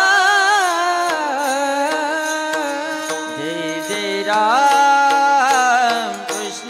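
Marathi devotional panchapadi singing: a male voice drawing out long, ornamented notes that waver and glide in pitch, over steady instrumental accompaniment with light percussive clicks.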